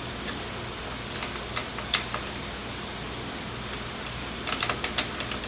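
Light metal clicks and clinks of drum-brake springs and self-adjuster parts being worked onto the brake shoes: a few scattered clicks, then a quick run of them near the end, over a steady low hum.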